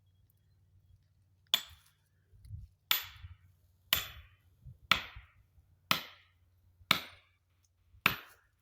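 A hammer driving a felling wedge into the saw cut of a hung-up oak: seven sharp, ringing blows about a second apart, starting about a second and a half in.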